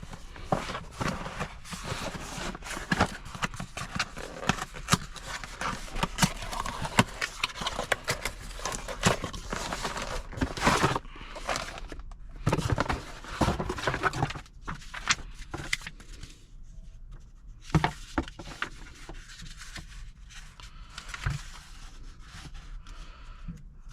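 Parts being handled by hand: irregular clicks, taps and rustling, busier in the first half and sparser in the second.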